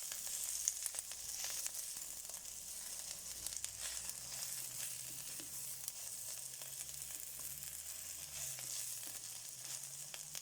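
Chopped onion, spring onion and garlic sizzling steadily as they fry in a pan, with scattered light crackles and a faint low hum underneath.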